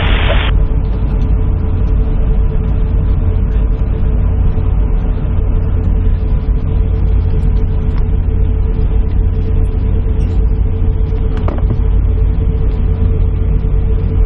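Steady low rumble and hum inside an airliner cabin, with a steady mid-pitched tone running through it, while the aircraft holds stationary on the runway after a rejected takeoff. There is a faint single tick near the end.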